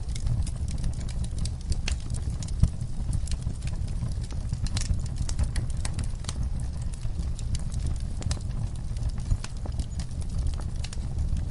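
Campfire crackling: a dense run of sharp pops and snaps over a steady low rumble, with one louder pop about two and a half seconds in.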